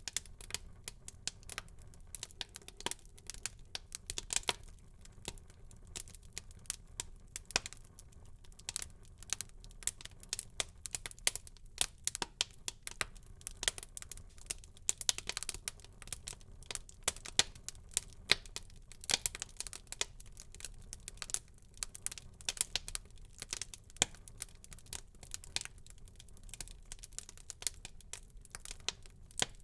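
Wood fire crackling in a fireplace: a dense run of irregular sharp pops and snaps over a faint low hiss.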